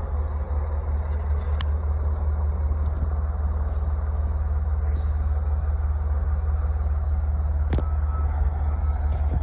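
Diesel engine of a 120,000 lb aircraft tow tractor running steadily with a deep, even drone. Two sharp clicks cut through it, one about one and a half seconds in and one about eight seconds in.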